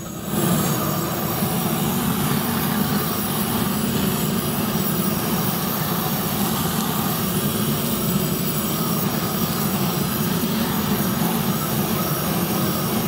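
Hose-fed handheld gas torch burning steadily, a low, even rush of flame that comes up to full about half a second in.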